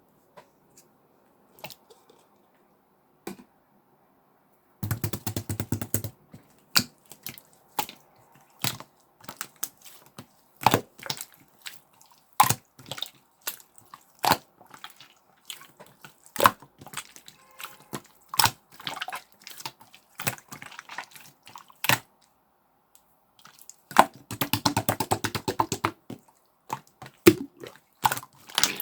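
Clear slime being squeezed, poked and pressed by hand, making sharp wet pops and clicks. Two stretches of rapid crackling, as air pockets in the slime burst, come about five seconds in and again near the end.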